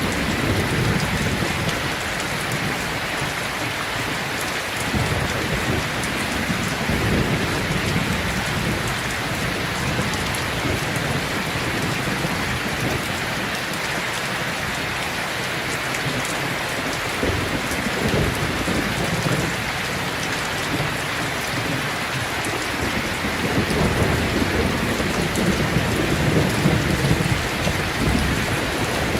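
Steady rain, with low rolls of distant thunder swelling and fading several times.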